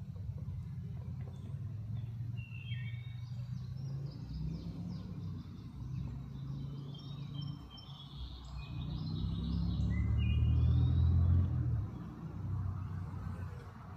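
Several birds calling in short chirps, some rising and some falling, over a steady low rumble that swells and is loudest about ten seconds in.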